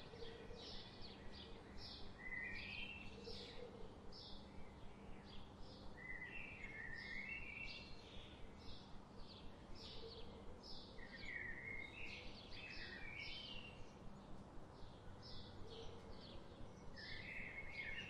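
Songbirds calling: one repeats short high chirps two or three times a second, while another gives short warbling phrases every few seconds, over a faint steady background noise.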